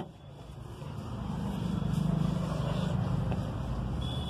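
A car engine running, growing louder from about a second in and then holding steady, with a small click near the end.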